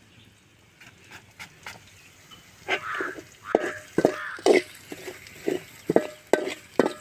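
Spoon stirring spice powders through frying onions in a metal pan. It scrapes and knocks against the pan in an irregular series from about three seconds in, some knocks ringing briefly.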